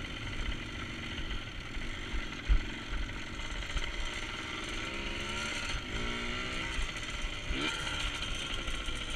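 Dirt bike engine revving up and down again and again while riding a bumpy dirt trail, over a steady low rumble. A single low thump comes about two and a half seconds in.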